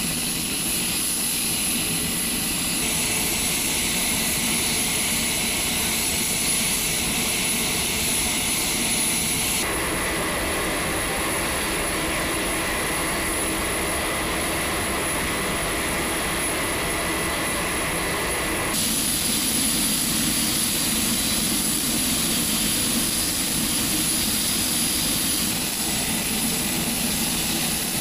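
Four Rolls-Royce AE 2100D3 turboprop engines of an HC-130J running steadily with a high turbine whine over the propeller noise. The sound changes abruptly about ten seconds in and again about nineteen seconds in.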